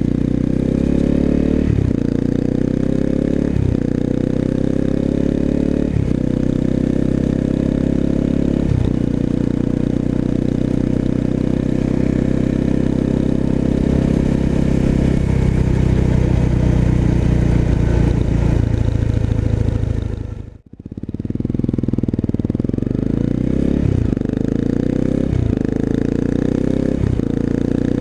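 Honda CRF250M's single-cylinder engine through a Moriwaki full exhaust, ridden under way: the exhaust note rises with the revs and drops back at each upshift, about every two seconds, then holds a steady cruise and eases off. About 20 seconds in the sound dips out briefly, then comes back accelerating through several quick upshifts.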